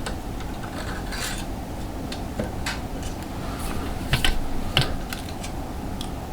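Myford Super 7B lathe running steadily while a drill bores into the bar stock, with scattered metallic clicks and scrapes from the cut.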